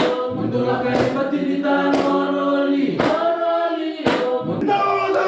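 A group of voices singing in harmony, Fijian village choral singing, with a sharp percussive strike keeping time about once a second.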